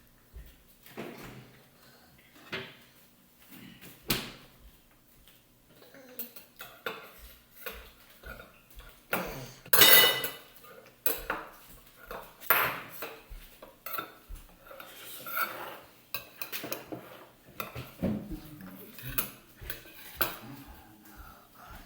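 A spoon clinking and scraping against a bowl during a meal, in irregular knocks and taps. The loudest strike comes about ten seconds in and rings briefly.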